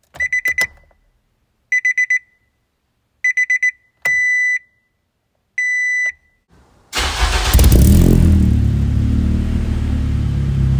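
Three quick runs of four high electronic beeps, then two longer beeps at the same pitch. About seven seconds in, a car engine starts with a loud burst, revs, drops in pitch and runs on steadily. The engine is the loudest part.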